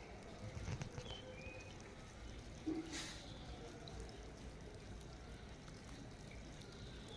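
Faint outdoor ambience of trickling water, with two short, high, falling chirps from a bird about a second in and an occasional soft click.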